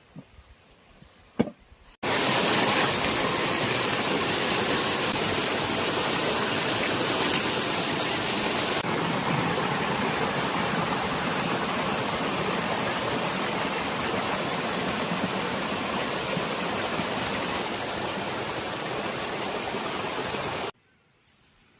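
Steady rushing water that starts abruptly about two seconds in and cuts off abruptly near the end, preceded by a single sharp click.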